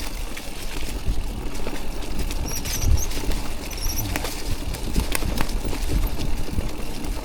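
E-mountain bike rolling down a wet, rough trail: the bike rattling and knocking over roots and ruts, with a rumble of wind on the microphone and two brief high chirps a few seconds in.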